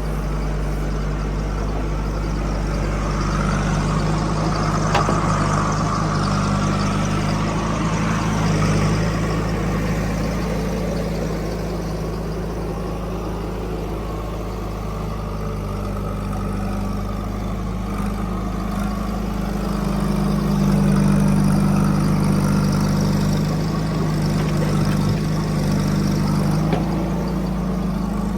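Heavy-machinery diesel engine running steadily, swelling louder twice as it takes more load.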